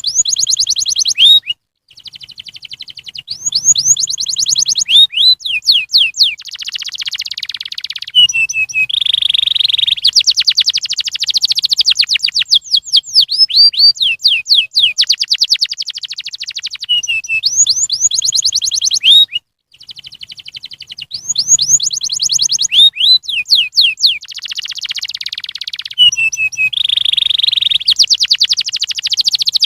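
Domestic canary singing a long, continuous song of fast trills and rapid sweeping chirps, broken by two brief silences, one near the start and one about two-thirds of the way through.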